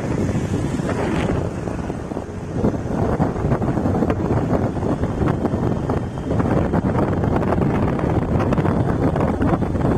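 Wind buffeting the microphone of a rider on a moving scooter, with engine and road noise underneath.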